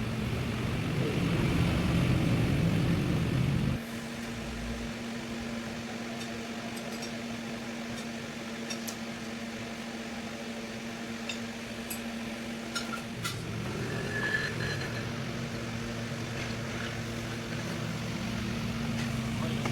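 A steady machine hum with an even tone. A louder, lower rumble cuts off suddenly about four seconds in and comes back about two-thirds of the way through, with a few faint clicks in between.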